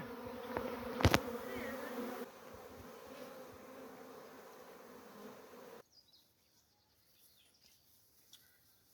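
Bees buzzing in a steady hum, with one sharp click about a second in; the buzz fades after about two seconds and the sound cuts off to near silence about six seconds in.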